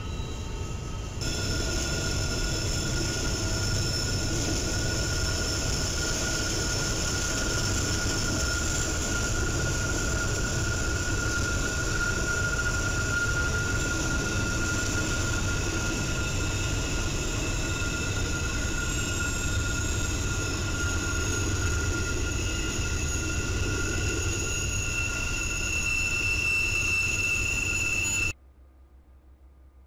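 Freight train of double-stack and flatcar wagons rolling slowly round a sharp curve: a steady rumble of the cars with continuous high-pitched wheel squeal from flanges grinding on the curved rail. The sound cuts off suddenly near the end.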